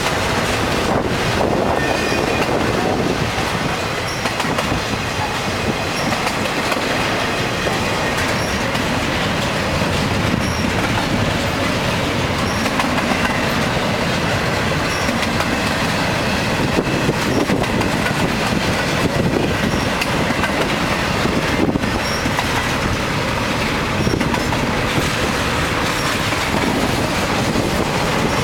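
CSX freight train cars rolling past, a steady loud rumble and clatter of steel wheels on the rails.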